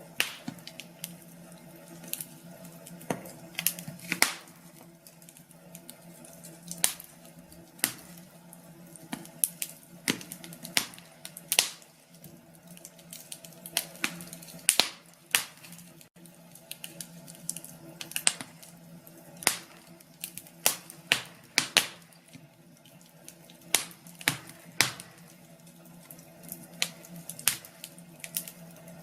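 Wood fire crackling, with irregular sharp pops and snaps, several loud ones, over a faint steady hum.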